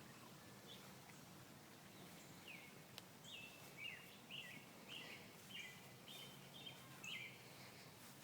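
A small bird chirping faintly, a run of about ten short, quick notes through the middle of the stretch, over a quiet, steady low hum of outdoor background noise.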